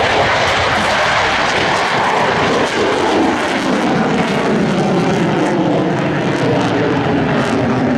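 Lockheed Martin F-22 Raptor jet fighter flying past with its twin afterburning turbofan engines, a loud, steady jet roar that sweeps down in pitch a few seconds in as it passes.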